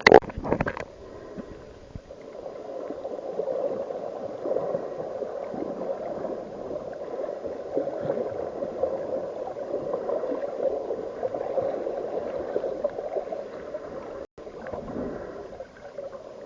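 Underwater water noise on a camera's microphone: a steady gurgling rush, with a few sharp knocks at the start and a brief dropout near the end.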